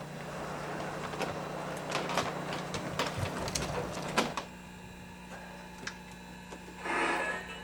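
Model train running on the layout track: a steady rumble and hum with irregular clicks from the wheels and rail joints. It stops abruptly about four seconds in, leaving a quieter steady hum.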